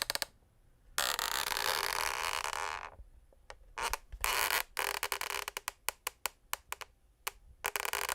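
Scraping on a wooden parquet floor: a long rasping stroke of about two seconds, a short one about four seconds in and another starting near the end, with scattered sharp clicks and taps between them.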